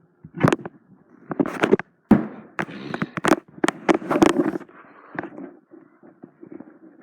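An irregular run of sharp knocks and clatter, with scraping or rustling between them.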